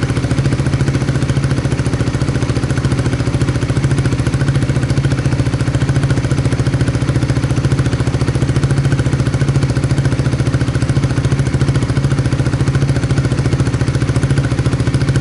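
Suzuki GSX-S125's single-cylinder four-stroke engine idling steadily through a BEAMS CORSA-EVO II aftermarket full exhaust, with an even, rapid exhaust pulse.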